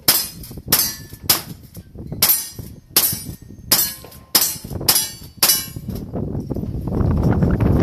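A string of about eight gunshots from a cowboy action shooting firearm, fired at a steady pace of roughly one every two-thirds of a second. A rushing noise follows near the end.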